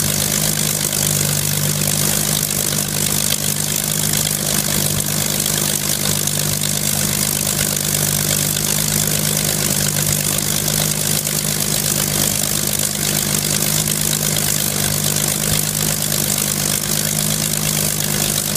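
Hispano HA-1112 Buchon's Rolls-Royce Merlin V12 aero engine running steadily at idle, with its propeller turning and a heavy hiss over the low engine note.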